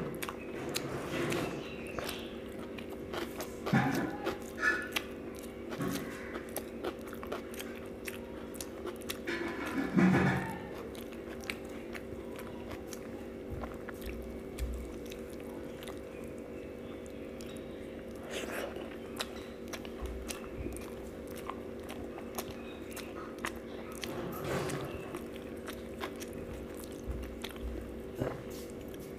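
Close-up eating sounds: a person chewing a mouthful of rice mixed with mashed boiled potato and dal, with soft wet mouth clicks and smacks. Louder clusters come about four seconds in and again about ten seconds in, over a steady low hum.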